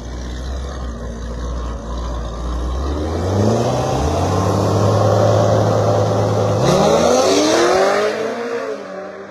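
Cars on a drag strip: engines rumbling low at the line, then launching, with the engine note climbing hard about three seconds in and climbing again through a gear change, before falling away and fading as they run off down the track.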